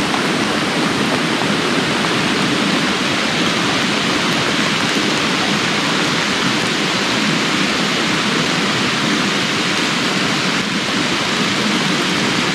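Heavy rain pouring down steadily, a dense, even hiss of a sudden downpour.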